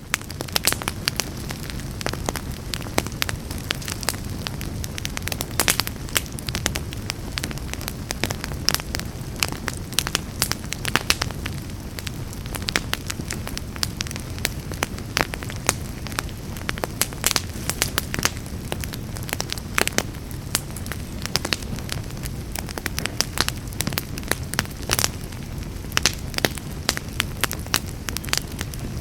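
Wood fire burning in a fireplace: a steady low rumble of flames with frequent sharp, irregular crackles and pops from the burning wood.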